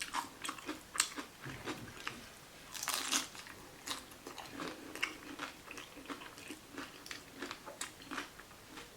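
Close-up chewing and biting of a vegan salad taco: crisp, crunching bites with wet mouth sounds, the loudest crunch about three seconds in.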